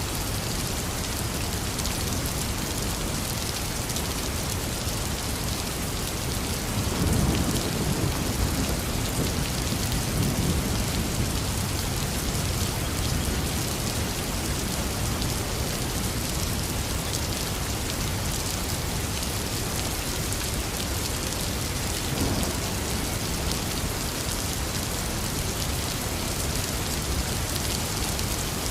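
Heavy rain falling steadily on surfaces, a dense hiss. Low rolls of thunder rumble under it about a quarter of the way in, and more briefly about three quarters of the way through.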